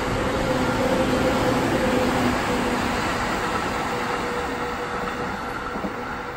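Electric commuter train running past below, a steady rumble of wheels on rails that slowly fades as the train moves away.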